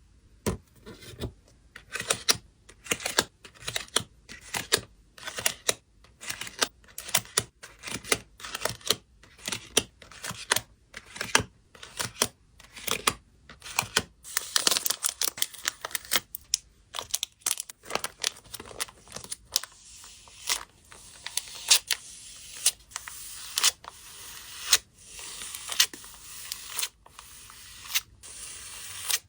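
Close-up packing sounds: plastic and paper packaging crinkling and rustling, with many sharp irregular clicks and tearing.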